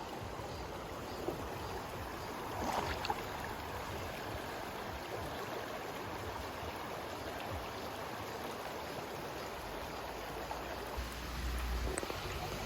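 Valley stream flowing steadily, an even rush of water, with a brief louder knock about three seconds in and a low rumble near the end.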